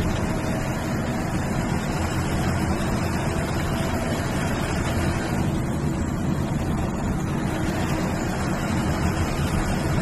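MSRTC sleeper/seater bus on the move: steady engine and road noise heard from inside the cabin, with no change or sudden events.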